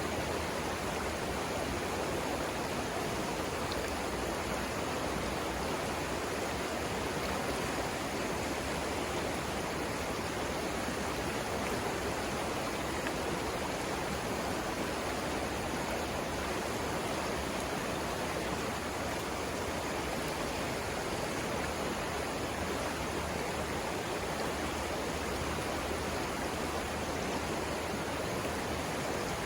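Savannah River rapids rushing steadily: a constant, even wash of flowing water.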